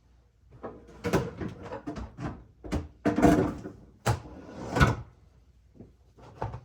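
A series of clunks, knocks and scrapes as a chainsaw is lifted and set back on a shelf. The loudest knocks come around the middle, with a couple more softer bumps near the end.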